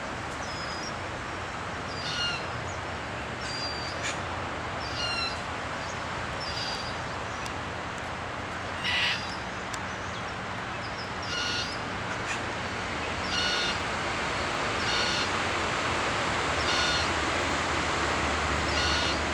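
A bird calling over and over, a short call about every one and a half to two seconds, over a steady background hiss.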